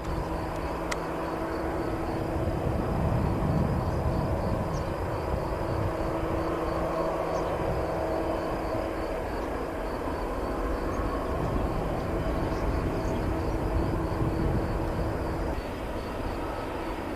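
Airbus A319 jet engines running at taxi power as the airliner rolls on the ground: a steady whine of several held tones over a rumble.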